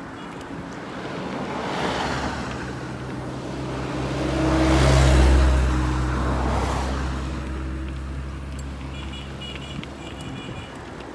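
Road traffic passing: one vehicle with a low, steady engine drone goes by, loudest about five seconds in, and lighter passing vehicles swell and fade around it.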